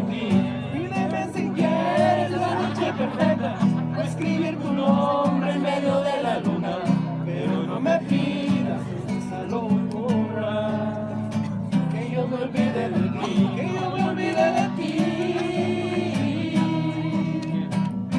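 Acoustic guitar strummed steadily, with singing over it.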